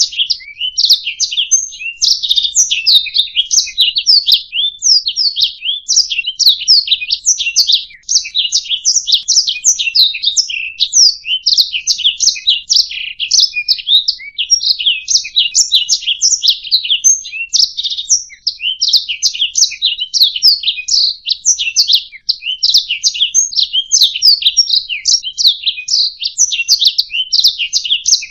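Domestic canary singing a continuous, fast song of rapid chirps and trills, loud and with hardly a pause.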